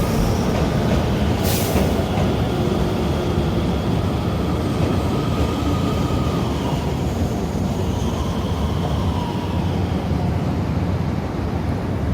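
Hokuetsu Express HK100 diesel railcar running along the line, a steady run of engine and wheel noise with faint tones that slowly glide in pitch. A brief hiss comes about a second and a half in.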